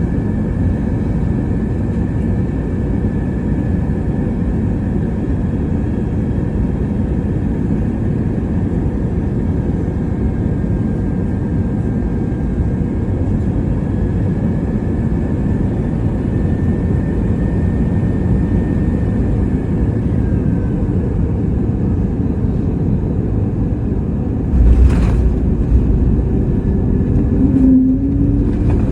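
Airbus A321neo cabin noise on final approach: a steady low rumble with a faint steady whine. About 25 seconds in, a sudden jolt and a louder rumble mark the main gear touching down, followed by runway rumble and a few knocks as the plane rolls out.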